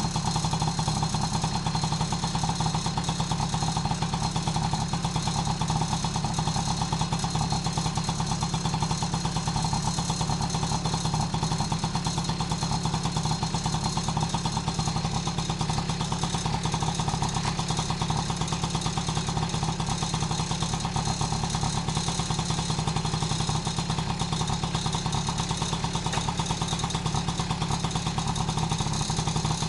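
Honda Motocompo NCZ50's small two-stroke single-cylinder engine idling steadily.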